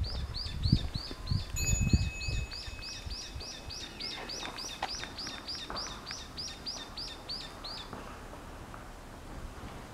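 A bird gives a rapid string of short, high chirps, three to four a second, that stops about eight seconds in. A few low thumps come in the first couple of seconds.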